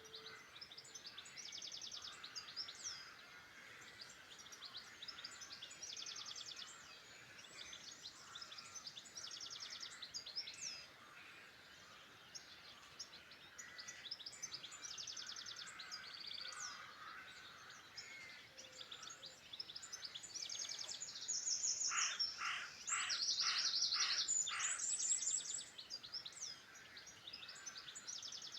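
Several songbirds singing at once, overlapping short high trilled phrases, over a steady outdoor hiss. About 22 seconds in, a louder series of about six harsh, evenly spaced notes overlaps a loud high trill.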